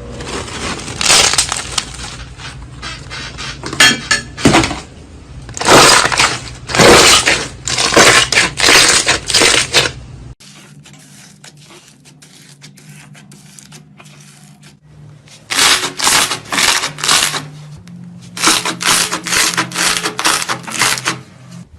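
Slime being squeezed and pressed by hand, giving off crunchy, crackling pops in repeated bursts of about half a second each. Near the middle there is a quieter few seconds with faint clicks, and then the crackling bursts resume.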